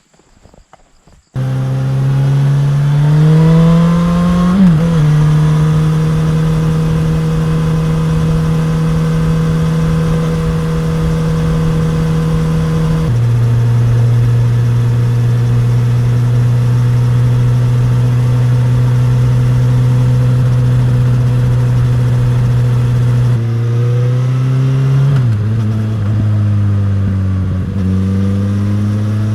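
Suzuki GSX-S1000 inline-four engine and exhaust under way. It comes in abruptly about a second in, revs up, drops at a gear change, then holds long steady notes. It steps down to a lower steady note partway through, and dips and climbs again near the end.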